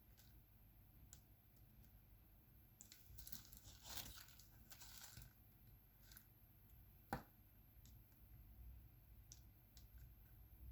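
Faint, scattered clicks and taps of diamond-painting work: a drill pen placing resin drills on the canvas. A soft crinkling rustle comes about three to five seconds in, and one sharper click a couple of seconds later.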